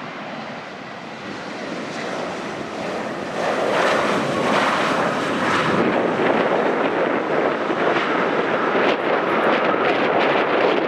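Airliner engines running loud, growing louder over the first few seconds and surging about a third of the way in, then holding steady. Strong wind buffets the microphone.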